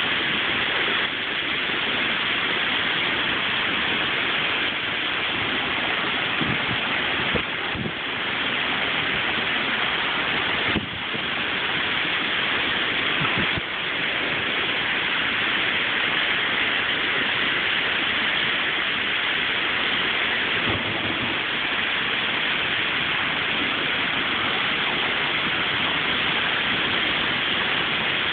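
Heavy rain driven by strong storm winds, a steady dense hiss of rain with a few short low bumps.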